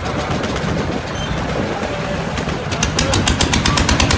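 Boat engine running with a rapid, regular knocking beat of several strokes a second, over a heavy low rumble; it gets louder and faster about two-thirds of the way in.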